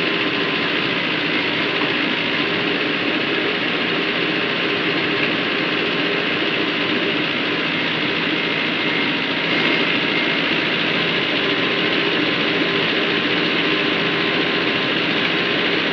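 Sonalika 35 tractor's diesel engine running steadily, pulling a fully loaded soil dumper.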